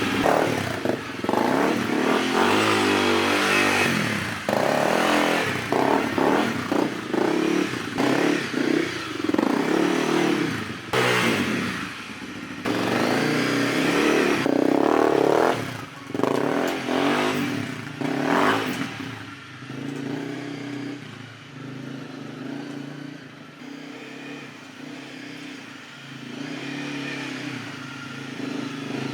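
Dual-sport motorcycle engine running under throttle, the revs rising and falling repeatedly. About two-thirds of the way through it drops to a quieter, lower running.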